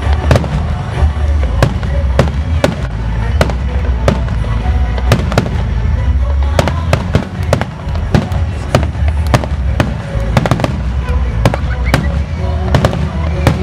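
Aerial fireworks going off in quick succession: sharp bangs several times a second, unevenly spaced, over a continuous low rumble.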